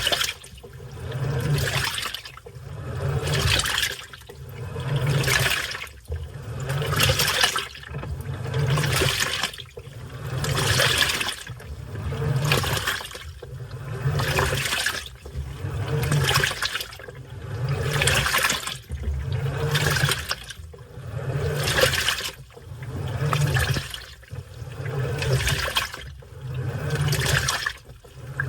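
Washing machine in its wash cycle: water sloshing in swells about every two seconds, each swell with the low hum of the motor driving the load back and forth.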